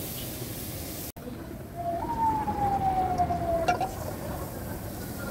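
Shredded chicken sizzling in oil in a pan over a gas flame while it is stirred with a spatula. About two seconds in, a squealing tone jumps up and slides slowly down for nearly two seconds, ending with a sharp knock.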